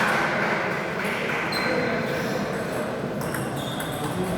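A few scattered clicks of a table tennis ball and short high squeaks, with murmuring voices in a large hall behind; the quick regular ball strikes of a rally have stopped.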